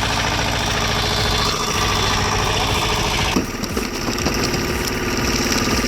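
Engine of heavy machinery running steadily, its sound changing abruptly about three and a half seconds in.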